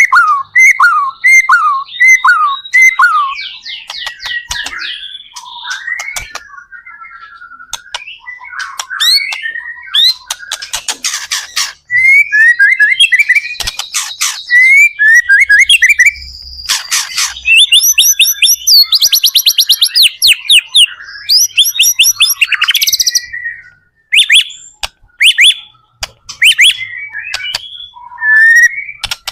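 White-rumped shama (murai batu) in full, continuous song: a long, varied run of whistled notes, fast trills and sharp repeated chips, broken by short pauses.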